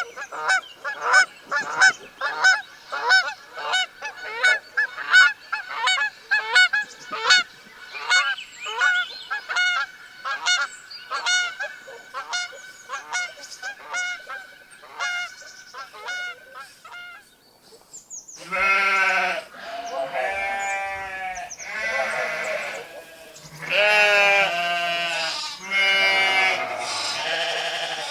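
Geese honking in a rapid run of short calls, about two a second, fading off after about seventeen seconds; then a goat bleating several long, wavering bleats.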